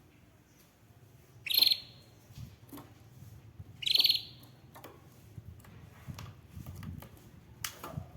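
Canary giving short, sharp high-pitched calls, two loud ones about two and a half seconds apart, with faint clicks between them.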